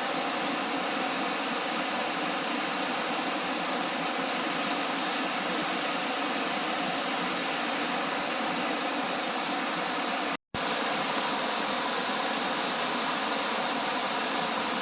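Steady rushing of a waterfall, even and unbroken, cut by a brief dropout about ten seconds in.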